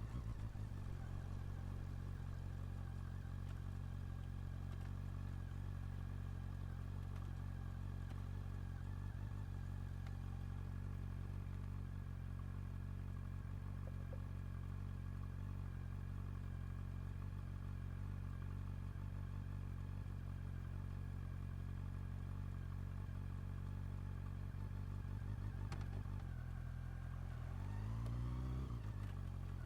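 Honda CB400 Super Four's inline-four engine idling steadily, with a short rev near the end that rises and falls back to idle.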